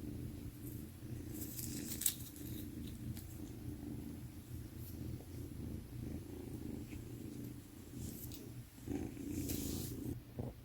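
A kitten purring steadily close to the microphone, with brief rustling about two seconds in and again near the end.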